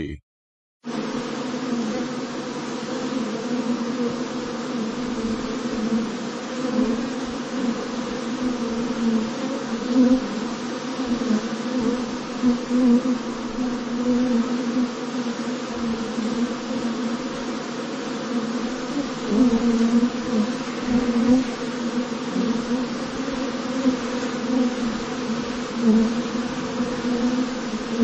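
Honeybees buzzing, presented as Africanized 'killer' bees: a steady drone that wavers in pitch and loudness, starting just under a second in after a brief silence.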